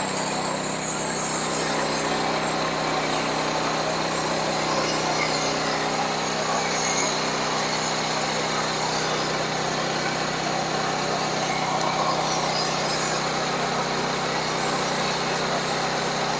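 Sawmill's engine running steadily under even throttle.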